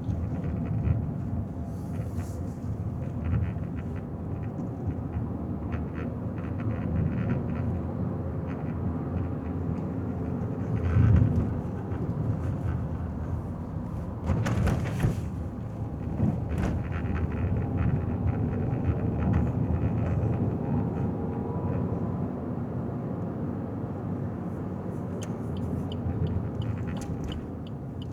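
Car driving through town streets: steady low road and engine noise, with passing traffic, getting louder briefly about eleven seconds in and again around fifteen seconds.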